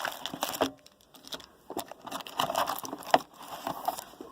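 Trading cards and their packaging being handled: irregular rustling with sharp flicks and taps as cards are slid and flipped through.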